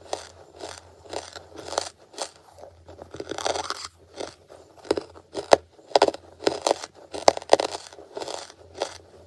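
Close-miked chewing of crunchy charcoal: repeated crunches, about two or three a second, with several sharp, loud cracks in the middle of the stretch.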